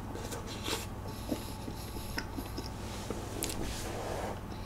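Quiet close-miked chewing of a soft baked doughnut with whipped cream: small wet mouth sounds and scattered light clicks.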